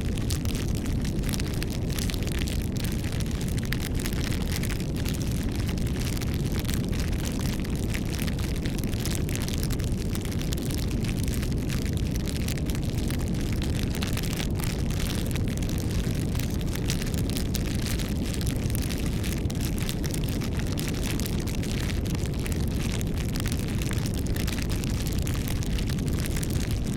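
A wood fire burning: a steady low rumble of flames with frequent sharp crackles and pops.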